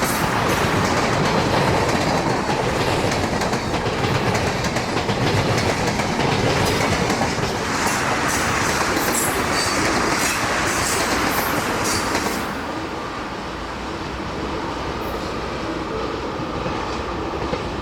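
Freight train rolling past, its steel wheels clicking over the rail joints; the sound drops off about twelve seconds in.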